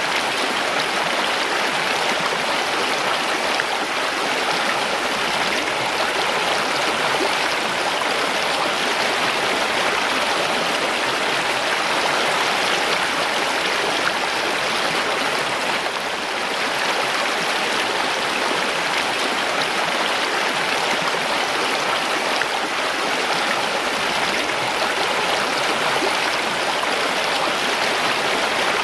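Mountain stream rushing steadily over rocks, a continuous splashing and gurgling of fast water.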